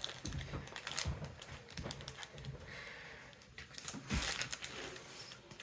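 Faint rustling and light clicks of small plastic packaging being handled.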